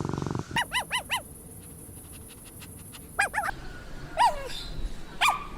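Puppy yipping and whimpering: a quick run of four high yips, then two more, a longer falling whine, and one last yip. A low rattling rumble cuts off about half a second in.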